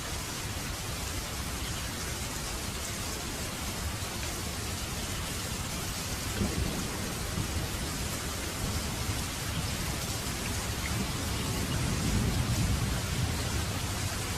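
Steady rain falling, an even hiss. A low rumble builds underneath from about halfway and is loudest near the end.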